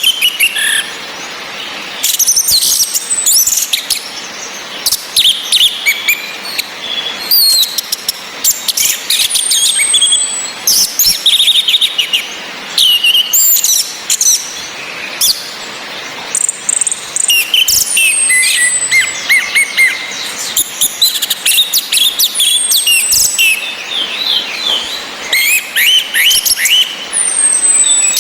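Orange-headed thrushes singing and calling: a rapid, varied string of chirps and short whistles, with a high falling whistle every few seconds, over a steady hiss of rain.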